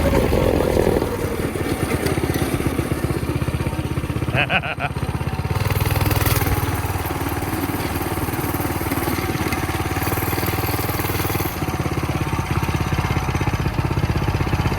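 Coleman mini bike's small single-cylinder four-stroke engine running steadily, its speed shifting up and down a few times. A brief voice-like call is heard about four and a half seconds in.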